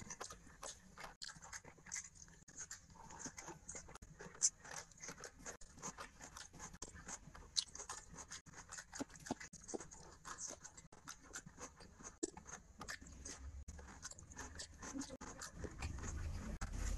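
Close-miked eating of rice and prawn curry by hand: wet chewing and lip smacks with many small clicks throughout.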